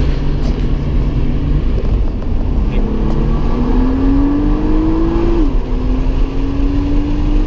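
Nissan R35 GT-R's twin-turbo 3.8-litre V6 heard from inside the cabin, accelerating hard: the engine note rises, drops sharply at an upshift about five seconds in, then rises again. Under it runs a heavy, steady road and tyre rumble.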